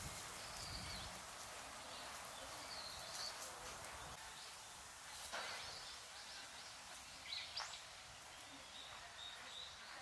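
Faint outdoor ambience with a small bird giving short high chirps several times, and a couple of soft knocks about five and seven seconds in.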